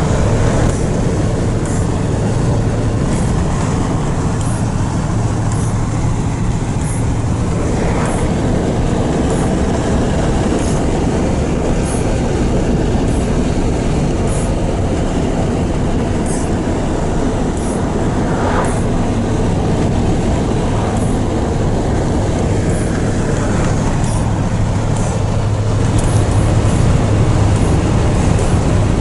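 Steady, loud rumble of a truck on the move: engine and road noise, with a low hum that grows a little stronger near the end.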